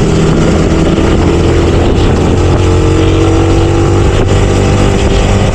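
Engine of a moving vehicle running steadily at cruising speed, with a steady rush of wind and road noise.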